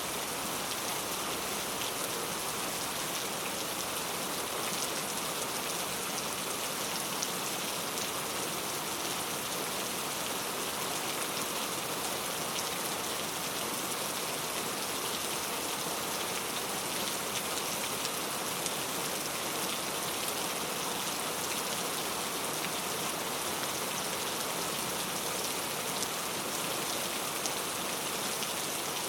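Heavy rain falling steadily: an even hiss with a dense patter of drops.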